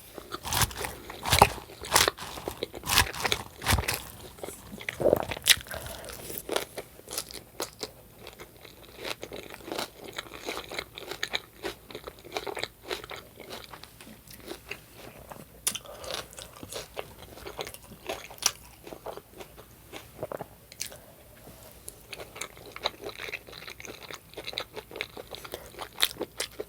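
Close-miked chewing and biting of food, with wet mouth clicks and smacks, louder in the first few seconds and quieter, steadier chewing after that.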